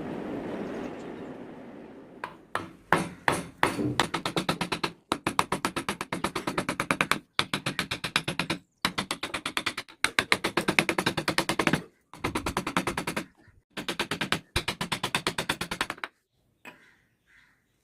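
Rapid runs of sharp taps, about ten a second, in bursts of one to two seconds with short pauses between, after a steady rushing noise fades out over the first two seconds.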